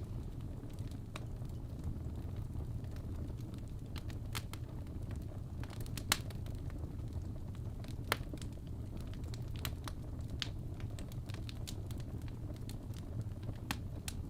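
Wood fire of burning logs in a fireplace crackling, with sharp pops and snaps scattered over a steady low rumble of the flames; the two loudest pops come about six and eight seconds in.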